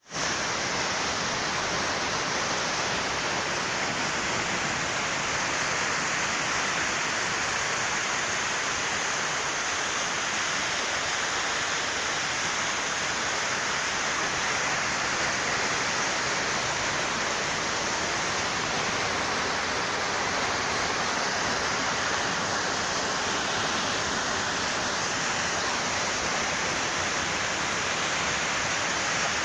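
Mountain stream rushing over rocks: a steady, even roar of fast-flowing water.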